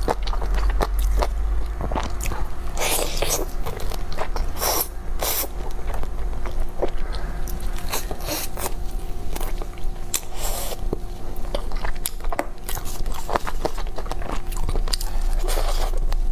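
A person eating saucy chicken close to a clip-on microphone: wet chewing, biting and lip-smacking, with many short mouth clicks.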